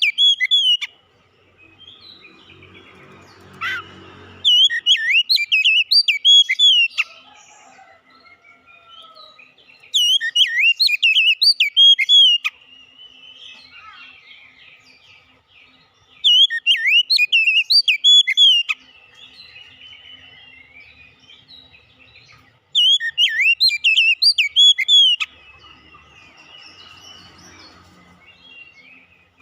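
Oriental magpie-robin (kacer) singing: loud bursts of fast, varied whistled phrases, each lasting about two and a half seconds and coming roughly every six seconds, with quieter chirps in between.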